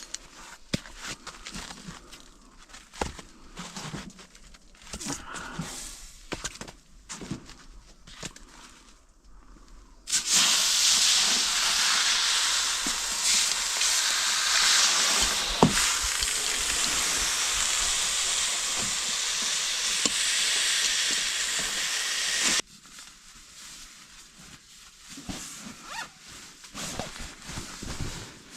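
Loud, steady hiss that starts suddenly about ten seconds in and cuts off suddenly about twelve seconds later, between stretches of quieter clicks and rustling.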